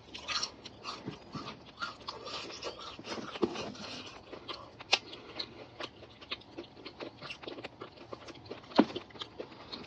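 Close-up chewing of crispy, potato-starch-breaded fried chicken: a run of small crunches and wet mouth clicks, with a few sharper cracks, one about five seconds in and one near nine seconds.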